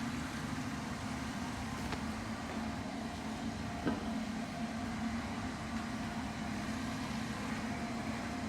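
Steady grinding noise with a low hum, which the owner at first took for a faulty recalled Flushmate pressure-assist toilet unit. There is one brief click about four seconds in.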